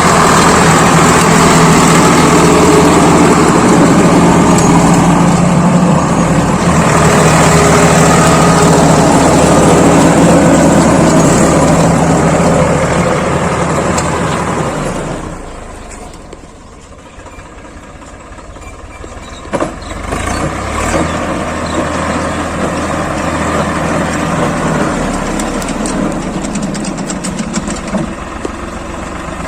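Swaraj 855 FE tractor's three-cylinder diesel engine running steadily and loud. It drops away about halfway through, then builds back up, with one sharp knock as it returns.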